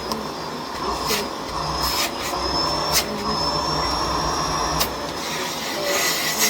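Miele Blizzard CX1 bagless vacuum cleaner running steadily with a thin high whine, its floor head worked over the floor with a sharp click or knock about once a second.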